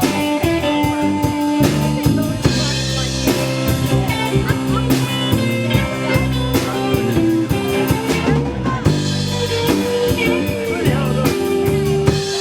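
Live band playing an instrumental break: guitar over bass and drum kit, with a steady beat.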